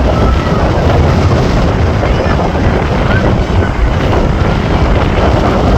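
Wind buffeting the microphone, a steady low rumble of noise.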